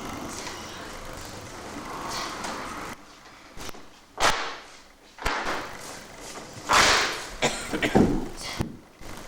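A martial arts weapon whipping through the air in a few sharp, separate swishes during a kata, with some thuds.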